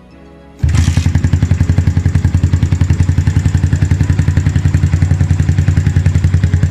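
Yamaha FZ150i's single-cylinder four-stroke engine running steadily through a newly fitted Akrapovic full-system exhaust, with an even, fast pulse. The sound comes in suddenly about half a second in.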